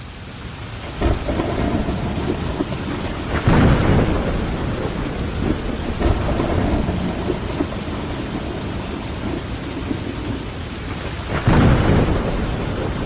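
Steady rain on window glass, swelling up over the first second, with thunder rumbling low three times: about a second in, around three and a half seconds in, and near the end.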